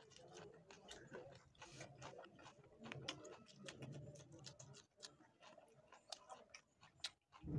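Faint, close chewing with many small wet lip-smacks and mouth clicks: a person eating spicy chicken curry with roti by hand.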